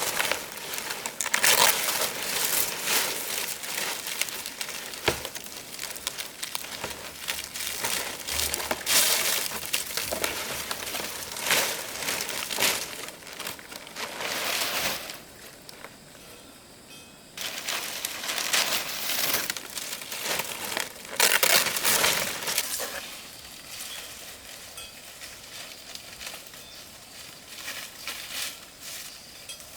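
Crinkling and crunching handling noises in irregular bursts, with a quieter pause about halfway and softer, steadier noise near the end.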